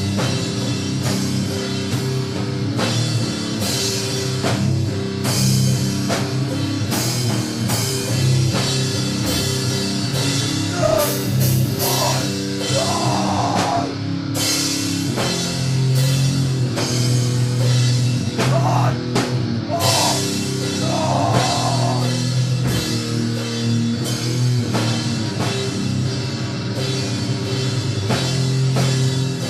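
Slow, heavy doom-metal music from a drum kit and guitar: drum hits land roughly once a second over long-held low notes. Wavering higher sounds come in twice, around the middle.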